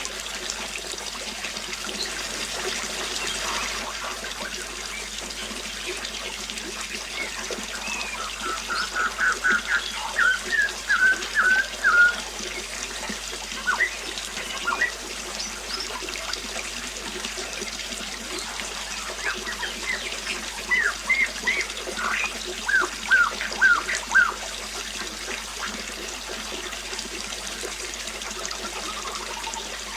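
Running water trickling steadily, with a songbird singing two bursts of quick repeated chirps, the first about eight seconds in and the second about twenty seconds in.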